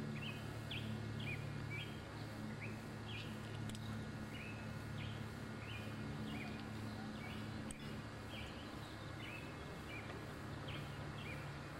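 A small bird chirping over and over, short sharp chirps at about two to three a second, over a steady low hum.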